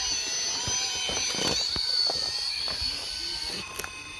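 Traxxas TRX-4 Sport RC crawler's small electric motor and geared drivetrain whining, the pitch shifting as it drives, with scattered clicks and knocks.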